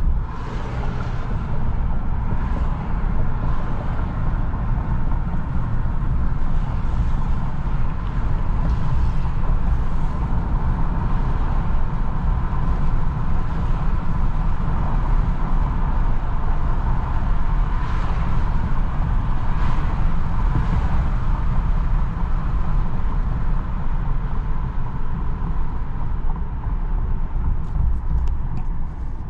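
Road and engine noise inside a pickup truck's cab while driving: a steady low rumble with a hiss over it.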